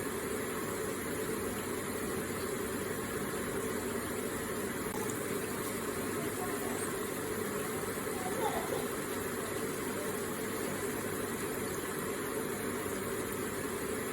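Electric water feature running, water trickling and splashing in a steady, even stream, with one brief slightly louder blip about eight seconds in.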